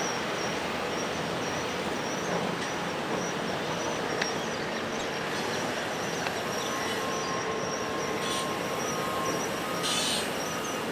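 Steady jet-engine noise from a departing four-engined Boeing 747-400, with a thin high whine over an even rushing sound.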